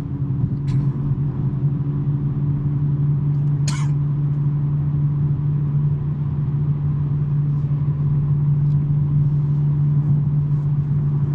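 2023 BMW M3's twin-turbo inline-six, fitted with a non-resonated J-pipe exhaust, droning steadily at constant revs while cruising, with a short click about four seconds in.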